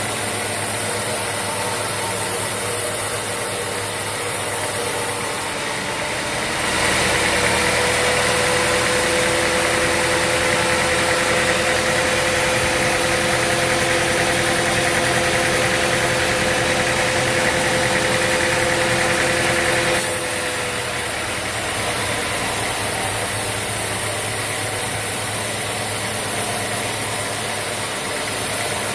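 Sawmill machinery running steadily. From about seven seconds in until about twenty it gets louder, with a steady humming tone added, then drops back to its earlier level.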